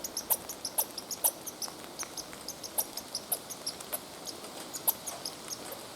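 A small animal giving short, high-pitched squeaks, a few a second at uneven intervals, anxious-sounding and like a squeaky toy.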